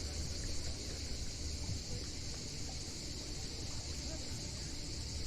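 Steady, unbroken high buzzing of insects, typical of a summer cicada chorus, over a steady low rumble.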